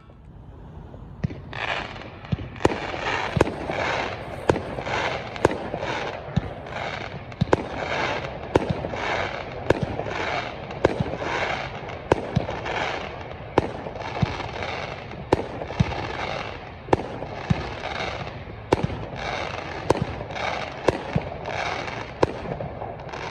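Fireworks going off: a long string of sharp bangs, more than one a second, each followed by a crackling hiss.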